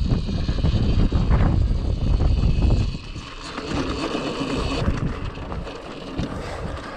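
Wind buffeting the microphone in heavy low gusts, easing about three seconds in, with the high, steady whine of a Cake Kalk OR electric dirt bike's motor underneath.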